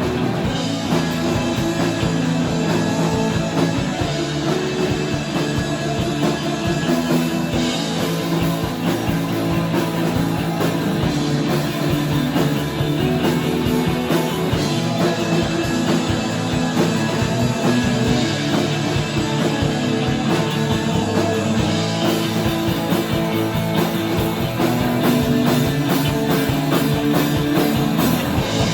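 A rock band playing live in a studio: electric guitar, bass and drum kit in a steady groove, with no vocals.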